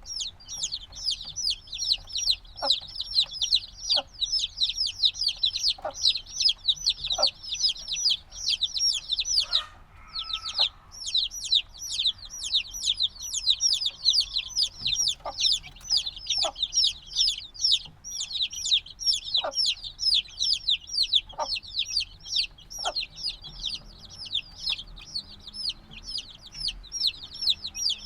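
A brood of chicks a few days old peeping without pause: a dense chorus of short, high, downward-sliding peeps. Scattered light taps run through it, and the peeping drops out for about a second near ten seconds in, where a lower-pitched sound comes through.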